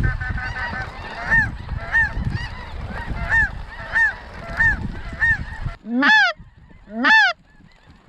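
Snow geese honking: a steady string of high, yelping calls, roughly two a second, over a low rumbling noise. The rumble cuts off suddenly about six seconds in, and then two louder single honks follow about a second apart.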